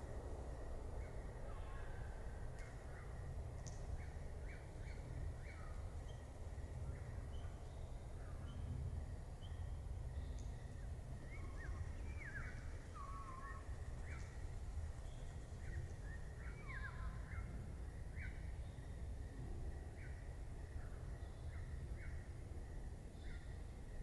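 Birds chirping: short calls, many sliding down in pitch, every second or so, over a steady low rumble of background noise.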